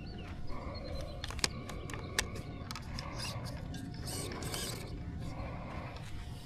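Scattered sharp clicks and light mechanical rattling, with a low steady background rumble.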